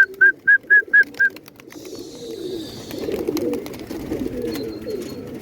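Domestic pigeons cooing in low, wavering calls. In the first second and a half there is a quick run of about seven short, high chirps, about four a second.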